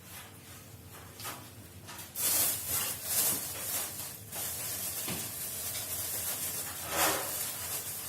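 Plastic grocery bags rustling and crinkling as market food is handled and packed away: irregular bursts of rustling that start about two seconds in, with a louder crumple near the end.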